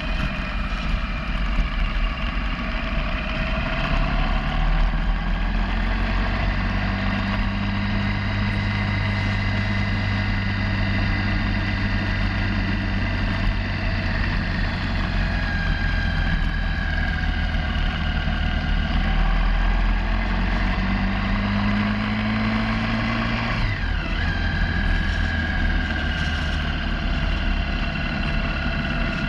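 Motorcycle engine running under way, heard on board with wind and road noise. Its note climbs steadily twice, and the second time drops sharply about twenty-four seconds in.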